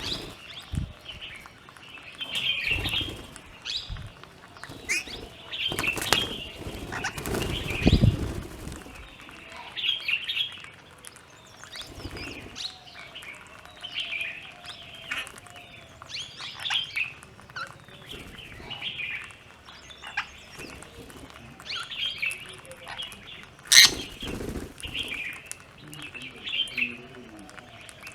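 Plum-headed parakeets and Himalayan bulbuls at a feeding spot, calling with short, repeated chirps, with bursts of wing flapping. There is one sharp knock about three quarters of the way through.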